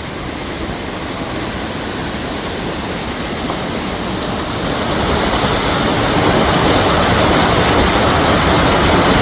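Spring water rushing out from under rock at the head of a river, a steady rushing that grows louder about five seconds in.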